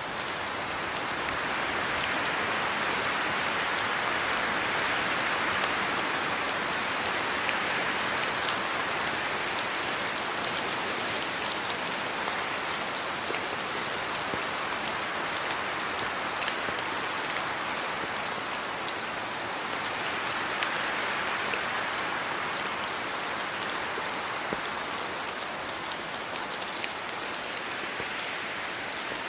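Steady rain falling, a dense even hiss with scattered individual drops ticking, swelling a little in strength now and then.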